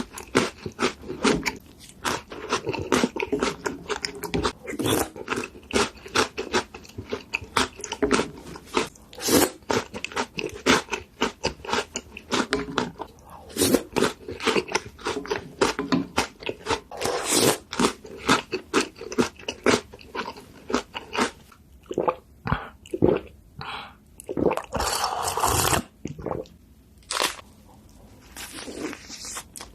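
Close-up eating sounds: food being bitten and chewed with rapid, crackly crunches. The crunching thins out about three quarters of the way through, broken by one longer noisy stretch.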